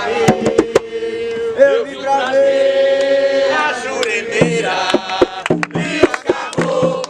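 Voices singing an Umbanda ponto (ritual chant) together, with long held notes. Sharp percussion beats sound under the singing and come thicker and more regular in the second half.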